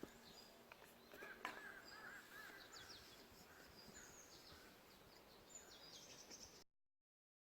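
Faint birdsong: small birds repeating short arching chirps and thin high notes over a low background hiss. The sound cuts off abruptly to total silence near the end.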